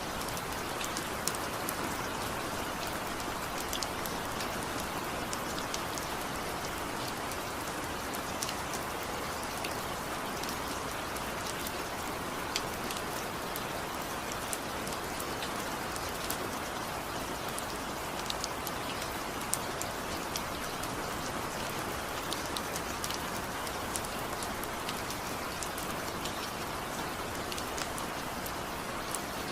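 Steady rain: an even hiss with many small, sharp drop ticks on a surface.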